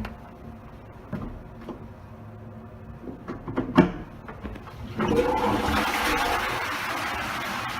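A DUX toilet cistern flushing. A few clicks and a sharp knock come first. About five seconds in, water rushes suddenly into the bowl and keeps running loudly.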